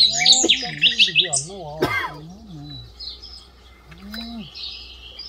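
Small birds chirping and twittering, busiest in the first second and a half and again more faintly later, over a low wavering voice. A single sharp click comes about two seconds in.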